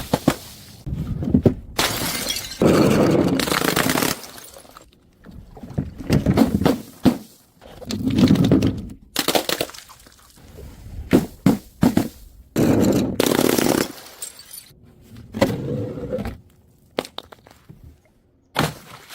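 Glass bottles crashing one after another, bouncing and shattering on stairs. There are about seven separate crashes, some with a second or two of scattering glass after them, and sharp clinks in between.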